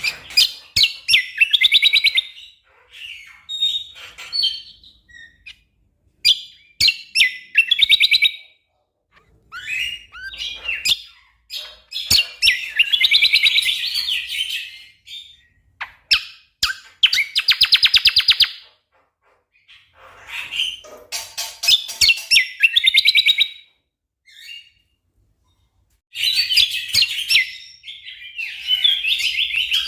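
Greater green leafbird (cucak kombo) singing in loud bursts of dense, fast note strings, the rapid 'tembakan' volleys, broken by short pauses.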